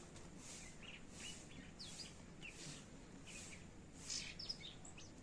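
Birds chirping faintly in short, scattered calls over a steady background hiss.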